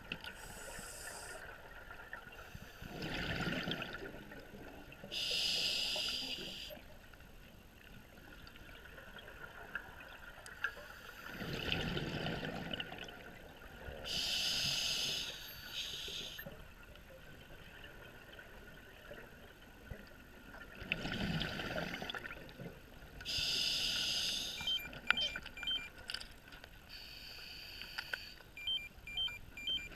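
Scuba regulator breathing underwater: a sharp hiss on each inhale, then a low bubbling rumble as the exhaled air bubbles out, in a slow cycle repeating about every nine seconds.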